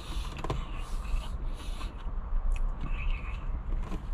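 A person chewing a big mouthful of hard-shell taco: irregular short crunches and mouth sounds over a low steady hum.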